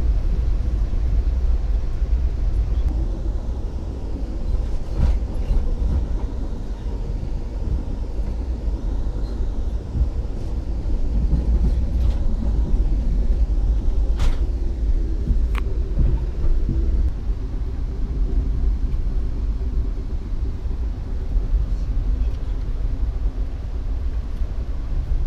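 Passenger train running, heard from inside the coach: a steady low rumble from the wheels and track, with a few sharp clicks now and then.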